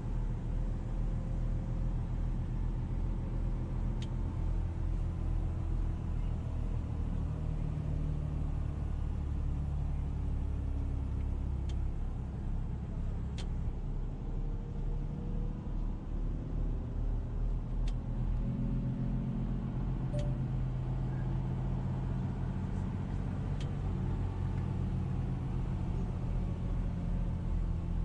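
A car driving: a steady engine and road rumble whose engine note drifts up and down, with a few faint clicks.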